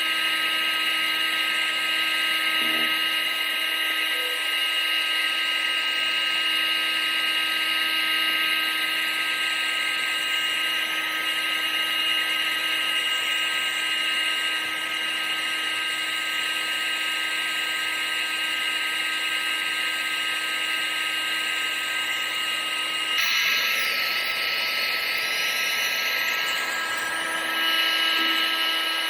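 Vacuum cleaner motor running steadily: a high whine over a rushing airflow hiss. About three quarters of the way through, the low hum drops out and the sound shifts for a few seconds, then the hum comes back.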